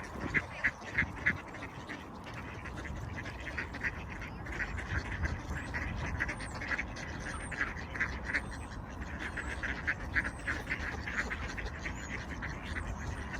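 A flock of ducks quacking in quick, overlapping short calls while they scramble for food.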